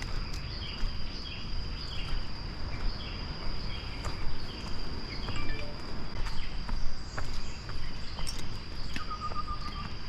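Tropical forest ambience: a steady high-pitched insect drone, with a bird giving short chirps over and over. About nine seconds in, one brief whistled note sounds.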